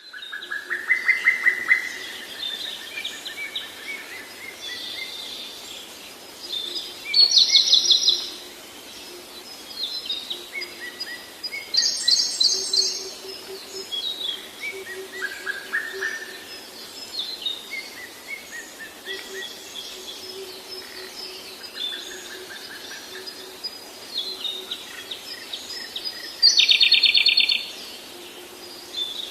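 Several songbirds singing in a spring chorus, with overlapping high chirps and warbled phrases. Three loud, fast trills of rapidly repeated notes stand out: about a quarter of the way in, near the middle, and close to the end.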